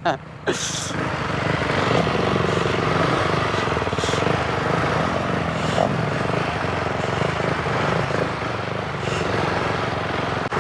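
Motorcycle engines running near idle as the bikes creep forward at walking pace, balancing in a slow race; a steady even running sound.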